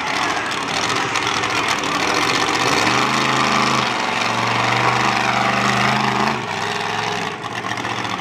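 Monster truck engine running loud, with a steady deeper engine note standing out from about three seconds in to past six seconds.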